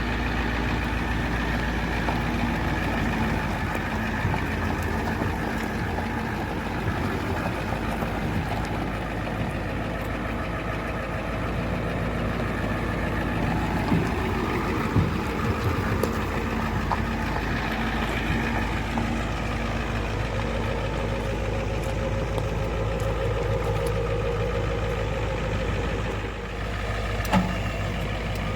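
1990 Ford F350 dually dump truck's engine idling steadily, with a few short knocks around the middle and one near the end.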